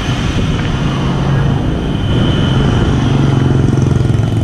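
A motor vehicle engine running steadily with a low hum, getting a little louder about two seconds in.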